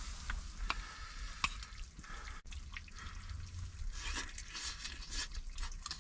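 Chicken drumsticks sizzling on a heating stove, with scattered light clicks and scrapes that grow busier in the last couple of seconds.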